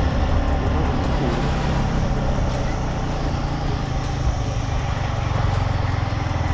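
Motorcycle engine running steadily while riding, over a continuous rush of wind and road noise.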